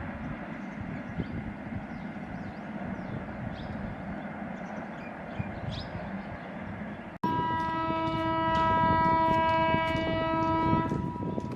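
A horn sounding one long steady note for about four seconds. It starts abruptly about seven seconds in, over a steady background noise with a few faint chirps.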